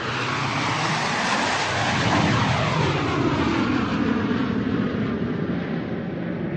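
Airplane flying overhead: a loud rushing noise that swells to its peak about two seconds in, with a sweeping, falling tone, then slowly fades as the plane passes.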